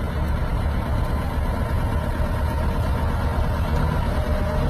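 Massey Ferguson 385 tractor's diesel engine running steadily with a deep, even rumble.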